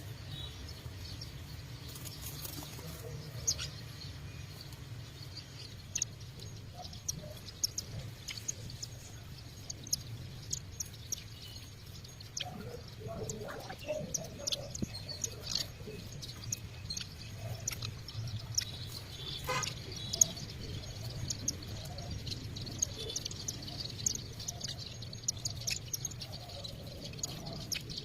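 Small birds chirping: many short, scattered chirps throughout, over a steady low background rumble.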